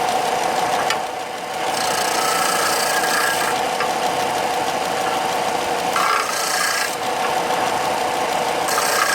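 Electric power sander running with a steady motor hum while it rubs over wood, the rasping growing harsher for a second or so at a time, three times.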